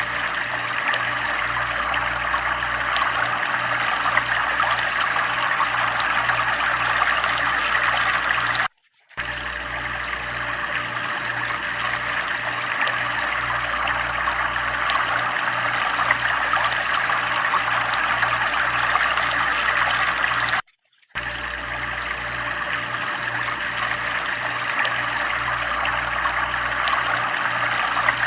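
Water from a tubewell pouring and splashing in a steady stream. It drops out briefly twice.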